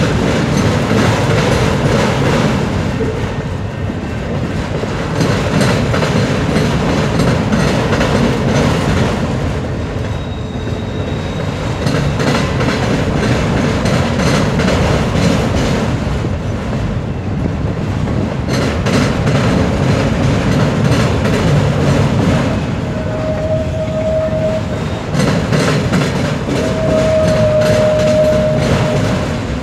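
Loaded autorack freight cars rolling past: a steady rumble with the wheels clacking rhythmically over rail joints. Two brief, steady high tones sound near the end.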